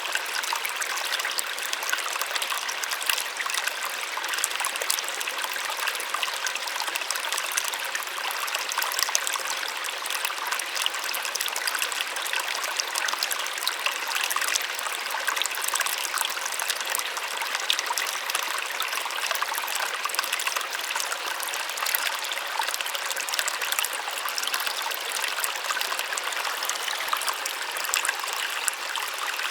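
Small waterfall running steadily: an even splashing hiss of falling water with little low rumble.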